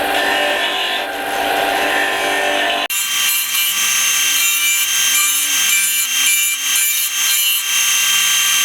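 Ryobi RBDS4601G belt and disc sander running with a piece of wood pressed against the sanding disc, giving a steady abrasive grinding over the motor's hum. The sound changes abruptly about three seconds in, to a brighter hiss with less low end.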